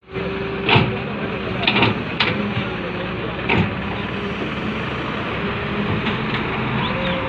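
Heavy construction machinery running with a steady engine hum, broken by several sharp metallic clanks in the first few seconds.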